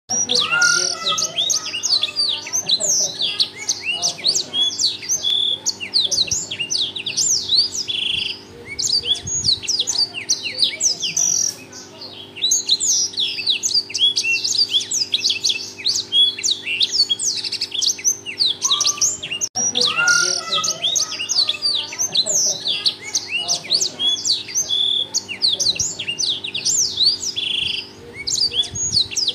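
Blackthroat (black-throated canary) singing loudly and nonstop in fast, high twittering phrases of quick rising and falling notes, over a faint steady hum.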